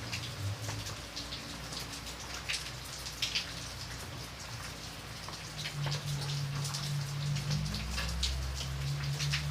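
Steady rain falling on a surface, with many individual drops ticking sharply over a continuous hiss. A low steady hum runs underneath.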